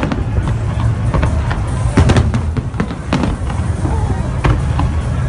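Fireworks going off in an irregular series of sharp bangs, several a second at times, with music playing underneath.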